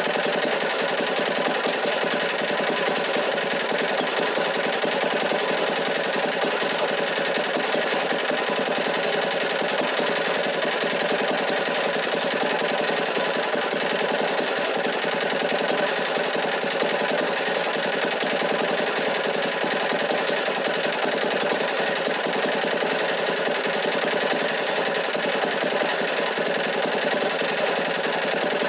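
An engine or motor running steadily with a dense, rapid rattle.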